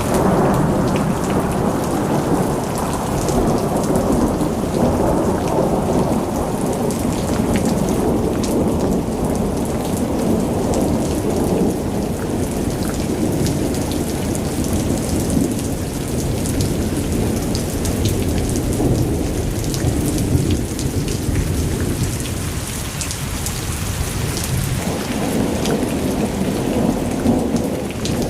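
Heavy rain falling steadily, with a deep rumble underneath and sharp drop splashes throughout. The rumble eases for a few seconds near the end, then swells back.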